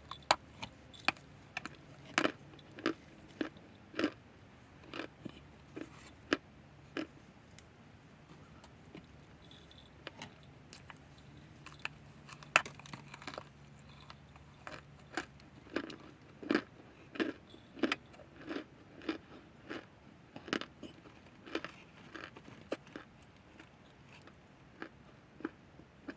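Chunks of cornstarch being bitten and chewed close to the microphone: a steady run of sharp, crisp crunches, about one or two a second, some much louder than others.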